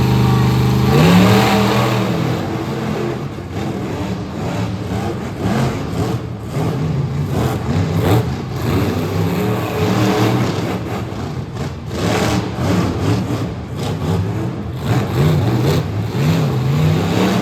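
Monster truck engines revving hard. The pitch climbs steeply about a second in, then rises and falls again and again, with crackling throughout.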